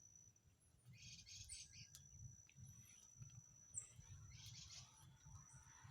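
Faint chirping of small birds in short bursts, about one second in and again past four seconds, with a few brief high whistles over a thin steady high tone.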